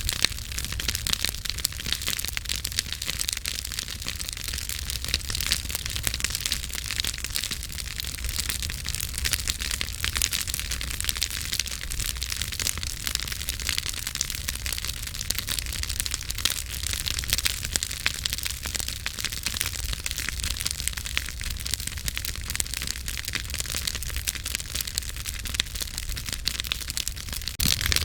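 Campfire burning with a steady, dense crackle of popping wood over a hiss, and a low rumble underneath.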